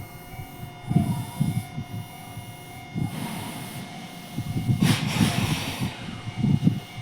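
Electric train running on after its loud passage, fainter, with steady faint tones over irregular low rumbling gusts and two short swells of hiss.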